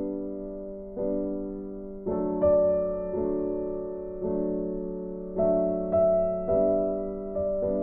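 Background music: slow, gentle piano chords struck about once a second, each note fading away.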